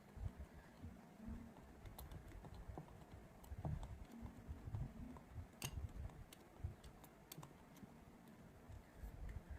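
Cake batter being stirred in a bowl: faint irregular clicks and soft knocks of the mixing utensil against the bowl.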